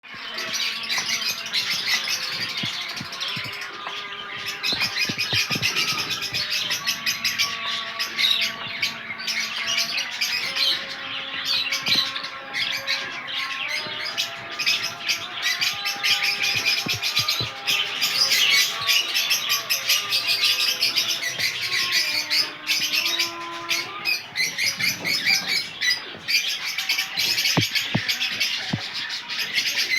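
Many small birds chirping and twittering together without a break, with some fainter steady tones underneath.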